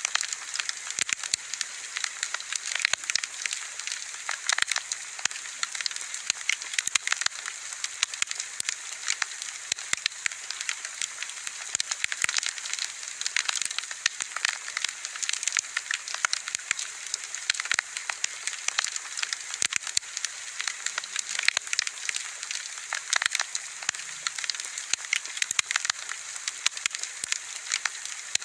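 Wood fire burning, with constant dense crackling and frequent sharp pops over a steady hiss.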